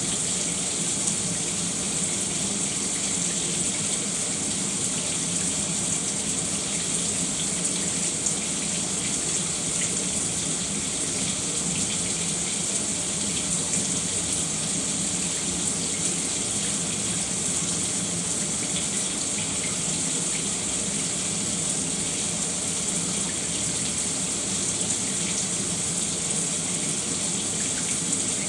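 Shower running steadily, water spraying and splashing in an unbroken hiss.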